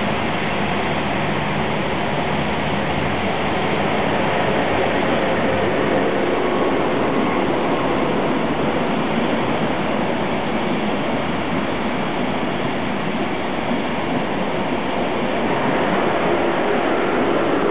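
ICE high-speed train running past on the track, a steady rolling noise of its passenger cars' wheels on the rails, a little louder near the end.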